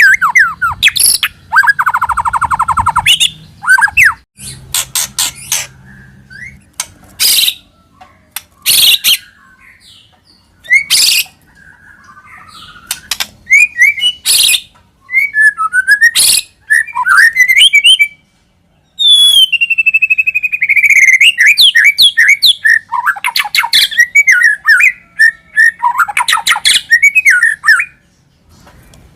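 White-rumped shama (murai batu) singing a varied song of loud whistles, sliding notes, rapid trills and sharp clicks, with a brief pause about eighteen seconds in.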